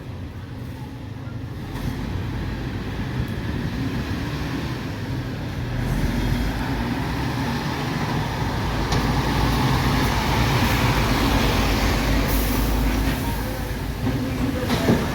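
A MAN TGS 26.320 garbage truck's six-cylinder diesel engine running. It grows louder about six seconds in and stays up for several seconds. A short sharp knock comes just before the end.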